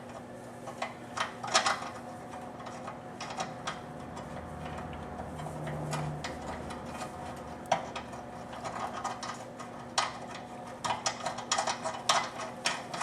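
Metal tools and hardware clinking and tapping at irregular intervals, with a busier run of clicks near the end, over a steady low hum.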